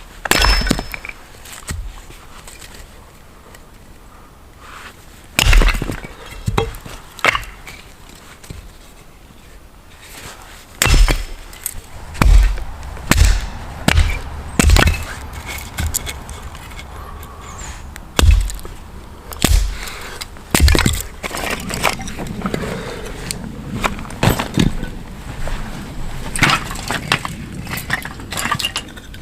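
Dry wood being broken by hand: irregular sharp snaps and knocks, one about five seconds in, a quick run of them from about eleven to fifteen seconds and more around twenty seconds, then smaller cracks and clicks near the end.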